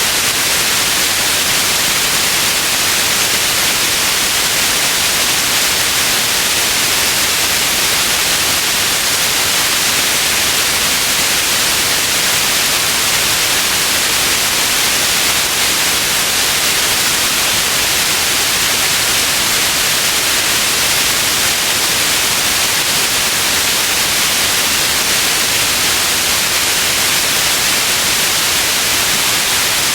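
Steady white noise: an even, unchanging hiss, strongest in the upper range, with no breaks or events.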